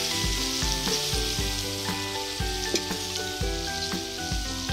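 Ground masala paste frying in hot oil in a metal kadhai, with a steady sizzle. Background music with a regular beat plays underneath.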